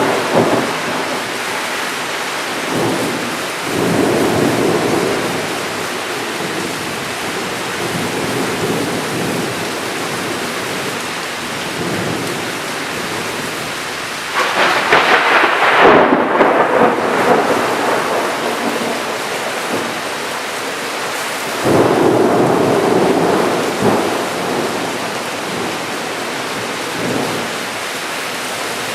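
Steady rain falling during a thunderstorm, with rolls of thunder: one a few seconds in, the loudest about halfway through, and another about three quarters of the way through.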